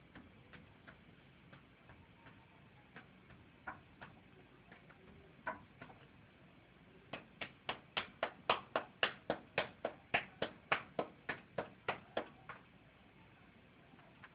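A run of sharp, evenly spaced clicks, about four a second for some five seconds, preceded by a few scattered single clicks.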